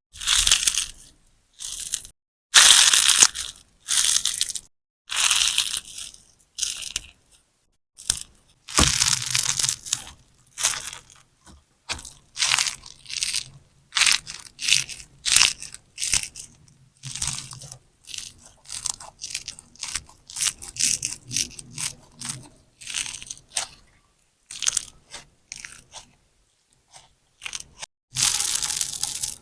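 Sponge slime, a large sponge soaked with clear slime, squeezed and pressed by hand over and over, giving crunchy, crackling squelches in short separate bursts about once a second.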